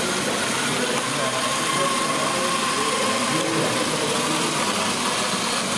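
Engine sound from radio-controlled model trucks and tractors running, over the steady noise of a busy exhibition hall. A thin, steady whine comes in about a second in and lasts a couple of seconds.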